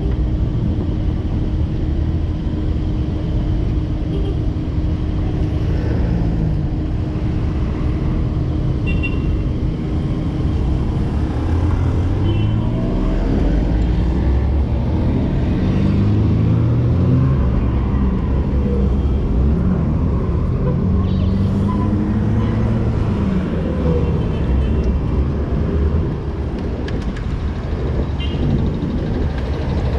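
City road traffic: a steady low rumble of motor vehicles, with engines rising and falling in pitch as cars pass from about the middle of the stretch onward.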